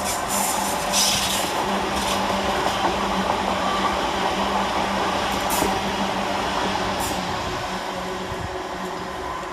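Class 350 Desiro electric multiple unit running on the rails, with a steady hum and wheel noise. Two sharp clicks come about halfway through, and the sound slowly fades toward the end.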